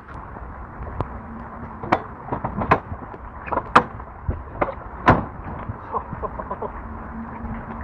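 Heavy rain hissing steadily, with a run of irregular knocks and clatters from about a second in, the loudest near the middle, as camping gear is handled.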